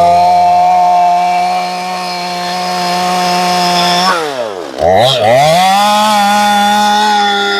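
Stihl MS250 two-stroke chainsaw running at high revs while bucking through a big oak log. About four seconds in, the engine speed drops sharply, then climbs back up to a steady pitch.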